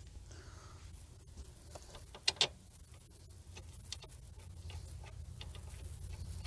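Light, scattered metallic clicks of hand tools as the hub bearing's mounting bolts are started, with two sharper clicks in quick succession about two and a half seconds in.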